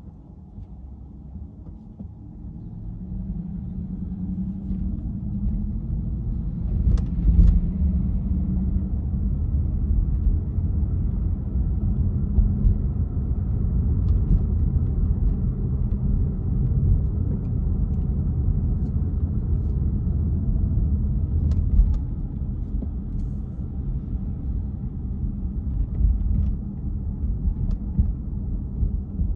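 A car driving, a low rumble of engine and road noise that swells about two seconds in, then runs on fairly evenly with a few faint clicks.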